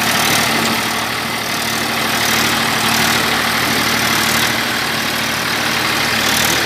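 Massey Ferguson 241 DI tractor's three-cylinder diesel running steadily while pulling a 7-foot, 60-blade rotavator through the soil. The engine does not labour under the load.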